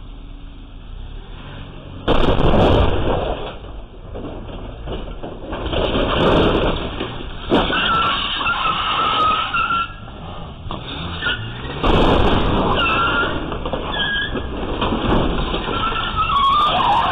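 Road vehicle noise picked up by a low-quality dashcam microphone. It jumps suddenly to loud about two seconds in, then swells and falls several more times, with wavering high tones later on.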